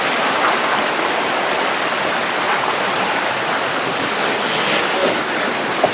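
Flowing stream water, a steady rush.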